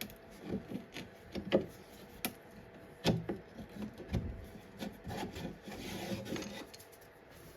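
Irregular knocks and short scrapes of wood being handled and worked by hand, with a longer stretch of rubbing about two-thirds of the way through.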